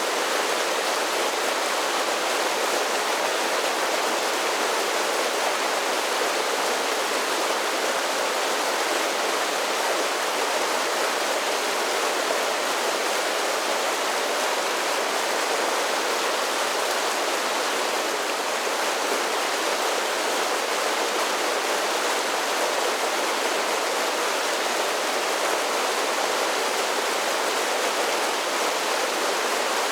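A series of small waterfalls on a mountain creek: water cascading and rushing in a steady, unbroken splash.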